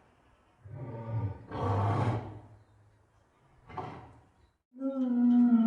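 Lion roaring: a run of separate grunting roars, two close together in the first half and a short one a little later, then a longer call with a clear, slightly falling pitch starting near the end.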